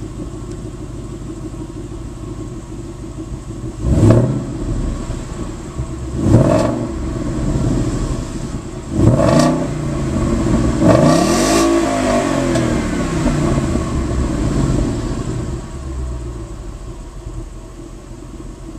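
2011 Ford Mustang GT's 5.0-litre V8 through its stock exhaust, idling and then blipped three times with short throttle stabs. After that comes one longer, higher rev that falls back and settles slowly to idle.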